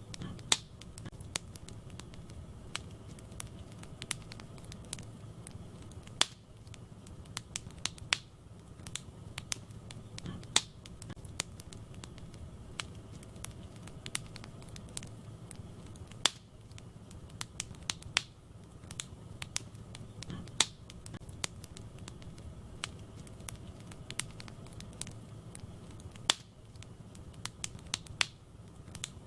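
Wood fire in a fireplace crackling: irregular sharp pops and snaps of burning logs over a steady low rumble of the flames.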